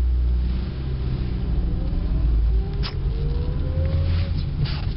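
Ford Focus engine pulling away in first gear, heard from inside the cabin: a steady low rumble whose pitch rises, drops briefly near the middle, then rises again. A short click sounds about three seconds in.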